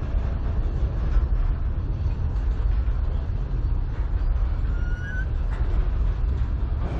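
Freight train of centerbeam flatcars rolling past close by: a steady low rumble of steel wheels on the rails, with a brief faint squeal about five seconds in.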